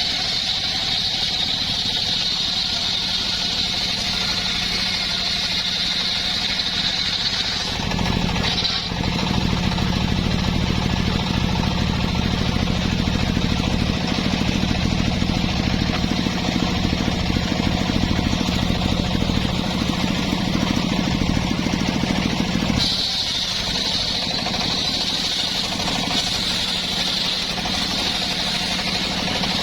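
Engine-driven wood saw running steadily. From about eight seconds in until about twenty-three seconds in, it turns deeper and slightly louder, and its high whine drops away, before returning to the earlier sound.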